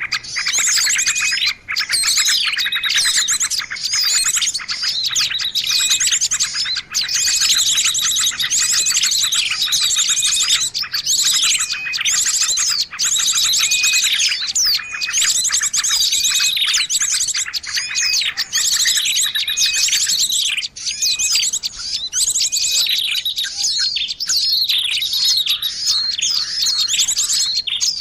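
Dense, noisy chorus of many small birds chirping and trilling over one another without a break, the kind of 'ribut' (noisy) flock recording played as a lure to call in birds of all kinds.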